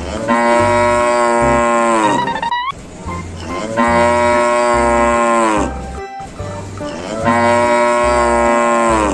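A cow mooing three times, each long call dropping in pitch at the end, over background music with a steady low beat.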